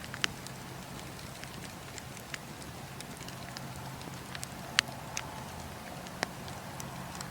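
Campfire burning: a steady hiss and low rumble of flames, with sharp crackles and pops from the burning wood at irregular moments. The loudest pop comes a little before five seconds in.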